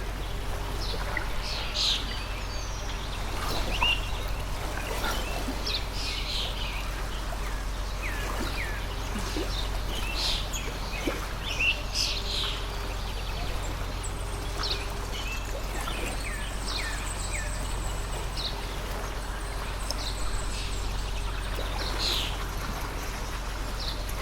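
Small birds chirping and calling in short, frequent notes over the steady rush of a flowing stream.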